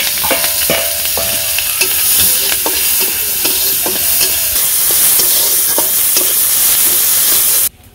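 Sliced onions and green chillies sizzling loudly in hot oil in an iron karahi, with a metal spatula scraping and tapping against the pan as they are stirred. The sizzle cuts off suddenly near the end.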